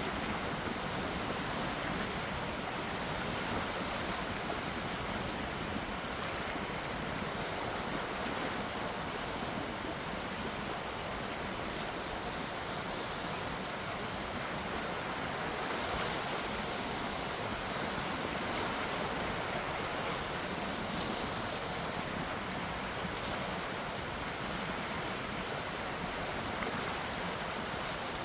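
Gentle sea waves washing steadily, with no distinct breaking surges.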